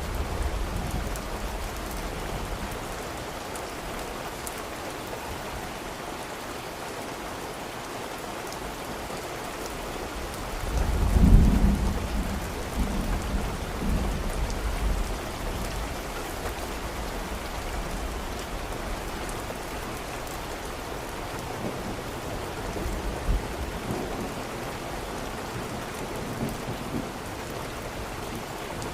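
Steady rain falling, with a low roll of thunder about a third of the way in that swells and dies away over a few seconds; a fainter rumble fades out at the very start.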